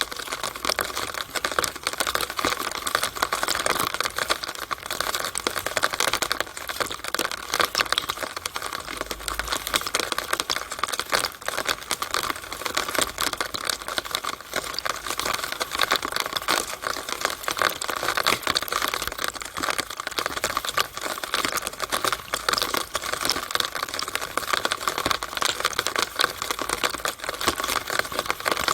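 Rainwater in a downspout: a dense, irregular patter of drips and splashing taps that keeps up at a steady level.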